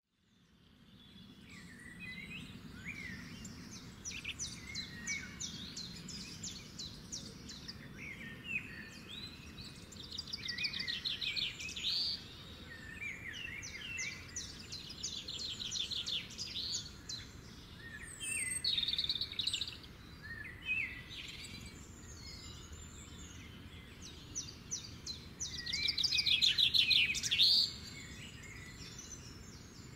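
Small birds chirping and singing, with quick repeated trills and short rising whistles, several voices overlapping; the singing is loudest a few seconds before the end.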